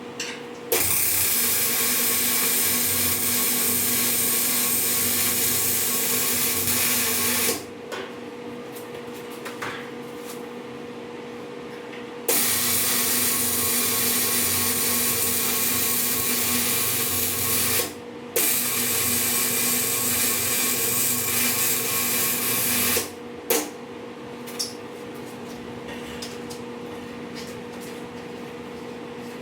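Electric arc welding on a steel chassis table: three long welding beads of steady crackling hiss, each several seconds long, starting and stopping abruptly, with a steady hum underneath and in the pauses between beads.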